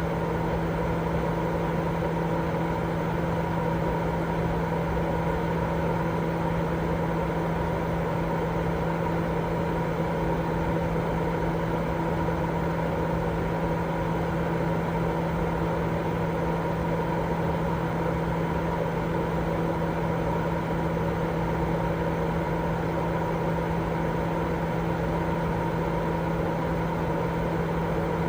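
Steady, unbroken white-noise sleep sound: an even rushing noise weighted toward the low end, with a constant hum running under it.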